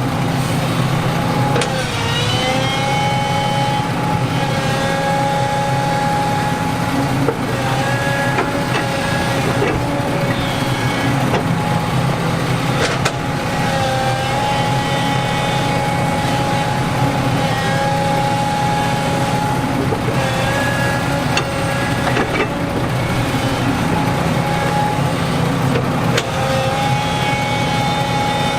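Heavy earthmoving machine's diesel engine running steadily, with a constant high whine over it that dips briefly in pitch now and then. A few sharp knocks come through it.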